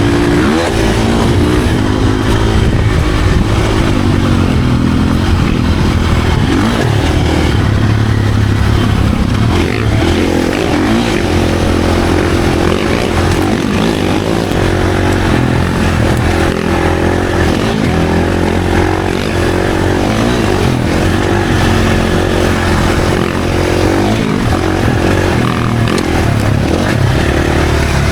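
Dirt bike engine running hard while riding trails, its pitch rising and falling repeatedly as the throttle is worked and gears change.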